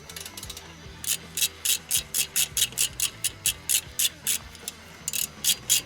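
Quick, even rasping strokes from hand work on motorcycle suspension parts, about four a second, starting about a second in and pausing briefly near the end before resuming.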